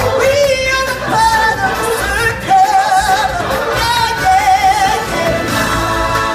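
Show singers performing with musical accompaniment, holding long notes with a wide vibrato.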